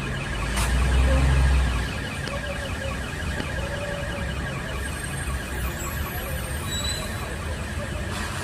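Road vehicle noise, with a low engine rumble swelling for about a second near the start.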